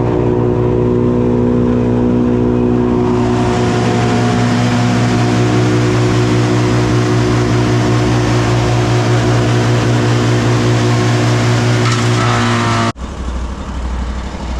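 Gasoline engine running at a steady, constant speed. A loud rushing noise joins it about three seconds in. Near the end the sound cuts off abruptly to a quieter engine running.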